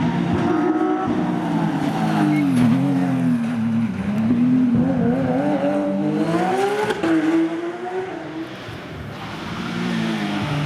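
Rally car engine at full attack, its pitch dropping and then climbing hard through the revs, with a sharp drop about seven seconds in as the driver shifts or lifts. The engine sound weakens briefly after that and builds again near the end.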